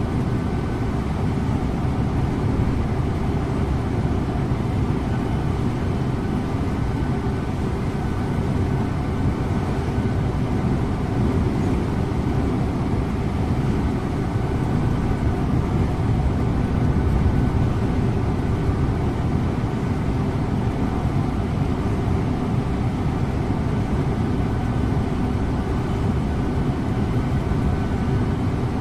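Scania InterLink bus driving at a steady speed: a constant low engine drone mixed with road and tyre rumble, heard from inside the bus.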